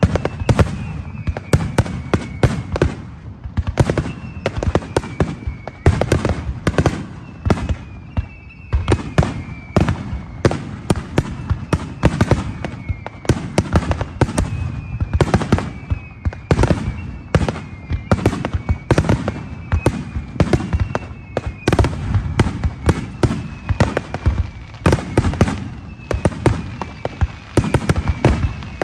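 Fireworks display going off in a rapid, continuous barrage of bangs and crackles, several bursts a second. Repeated high whistles, each falling slightly in pitch, run over the top.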